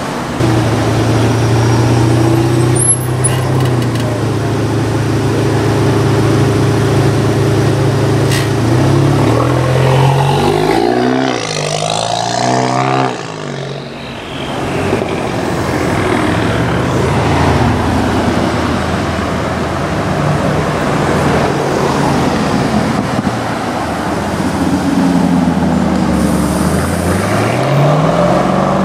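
Sports car engines in slow city traffic. A steady low engine drone runs for the first several seconds, a car passes with a gliding change in pitch about ten seconds in, and an engine revs up near the end.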